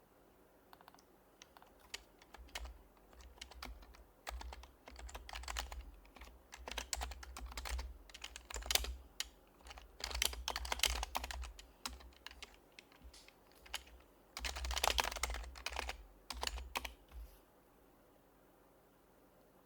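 Typing on an HHKB Professional HYBRID Type-S keyboard, its silenced Topre capacitive switches giving soft, muted key strokes. The keys come in quick bursts broken by short pauses, and the typing stops a couple of seconds before the end.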